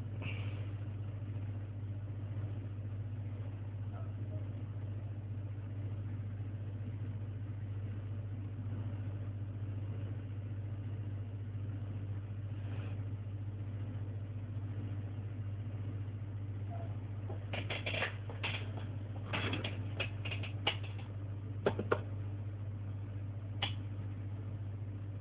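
Steady low hum with faint hiss, joined about two-thirds of the way in by a run of short clicks and rustles lasting several seconds.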